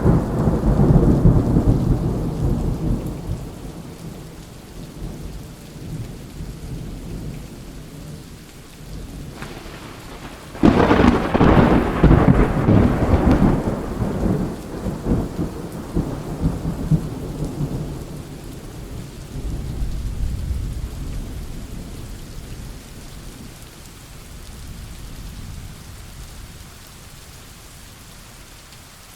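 Thunderstorm: thunder rumbling over steady rain. A roll of thunder dies away at the start, and a sudden loud clap about ten seconds in rolls on for several seconds before fading. A weaker rumble follows, then rain alone near the end.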